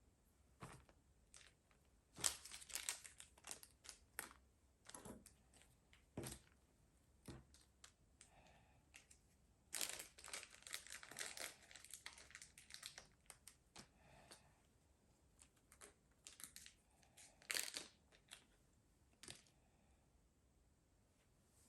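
Irregular crinkling, rustling and tearing of wrapping being handled, in short bursts with quiet gaps. It is busiest a couple of seconds in and again around the middle.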